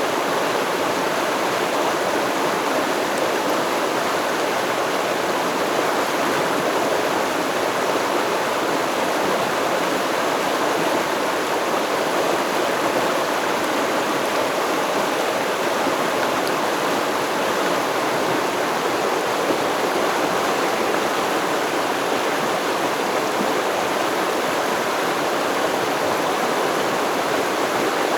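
Stream water flowing steadily over rocks, an even, unbroken rush with no birds or other sounds on top.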